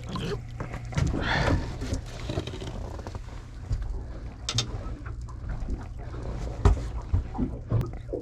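Steady low hum of a fishing boat, with scattered knocks, clicks and clatter of handling on deck; a louder rustling burst about a second in and a sharp knock near the end.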